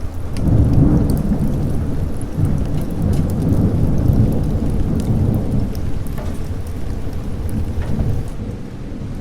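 A long rolling thunder rumble over steady rain. It swells about half a second in and fades near the end.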